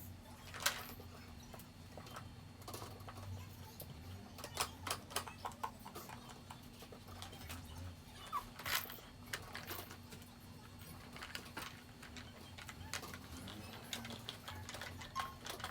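Irregular clicks, taps and knocks of the plastic parts of a balloon stand being handled and fitted together during assembly.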